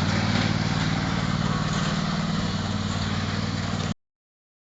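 Tractor engine running steadily under load, its rapid firing pulses mixed with a rushing noise; the sound cuts off suddenly about four seconds in.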